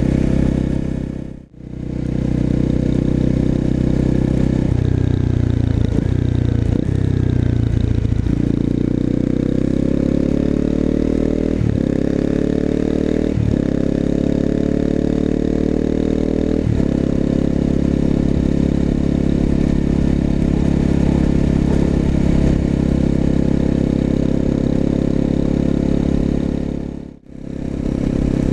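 250 cc single-cylinder motorcycle with an aftermarket exhaust, riding. The engine runs steadily, then accelerates up through the gears with its pitch rising and dropping at each of several shifts, and settles into a steady cruise. The sound briefly fades out about a second and a half in and again near the end.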